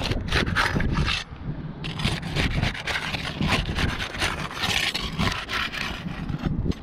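Repeated rough scraping and rubbing strokes as the seal of an asphalt roof shingle is broken, the shingle tab being worked loose from the adhesive strip beneath it.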